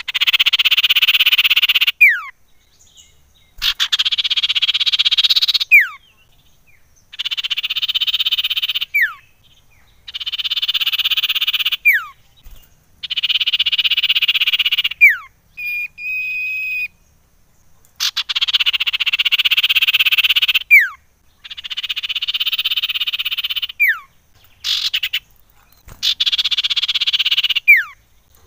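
Common iora (cipoh) calling over and over: harsh, buzzing churrs about two seconds long, each ending in a quick falling whistle. About halfway through there is one short, steady whistled note.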